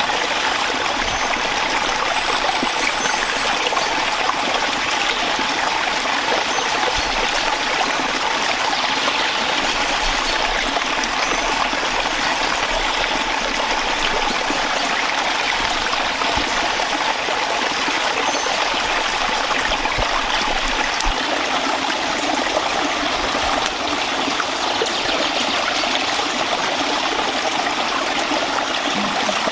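Steady rush of a flowing forest stream, unchanging throughout.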